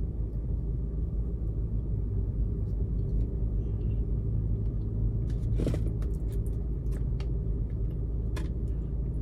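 Steady low rumble of a car idling, heard from inside the cabin, with a few faint clicks and a brief rustle just over halfway through.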